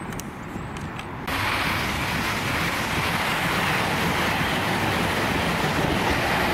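Train passing close at speed: a steady rush of wheel and air noise that rises, then jumps sharply louder about a second in as the train reaches the microphone, and stays loud.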